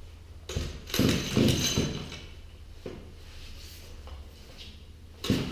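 A small two-stroke engine being pull-started by hand. There are two bursts of rapid knocking as it turns over, one about half a second in and another near the end, with a low steady hum underneath.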